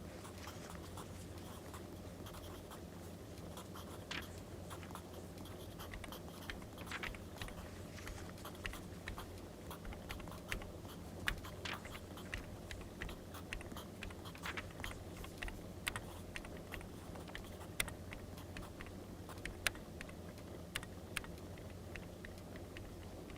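Writing on paper, the scratch of a pen, with a wood fire crackling in scattered sharp pops over a steady low hum.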